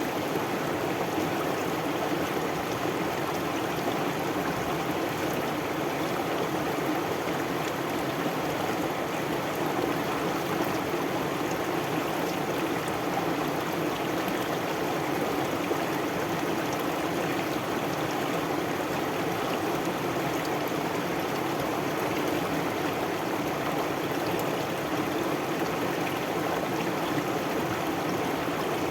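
Stream water flowing steadily over stones, an even babbling rush that does not let up.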